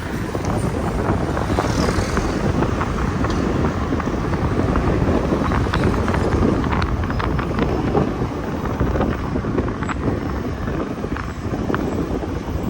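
Motorbike and city-traffic noise with wind buffeting the microphone, as heard riding pillion on a motorbike through busy streets. It is a steady rush with scattered small clicks and knocks.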